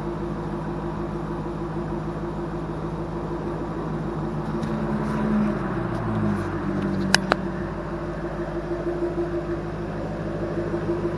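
Jaguar F-Type R's 5.0-litre supercharged V8 idling through its stock exhaust, the engine note lifting slightly about five seconds in and then settling lower. A single sharp crack sounds about seven seconds in.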